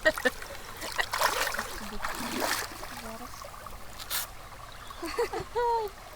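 Water splashing and trickling around people wading in shallow water, with louder splashing between about one and two and a half seconds in. A few short high vocal sounds near the end.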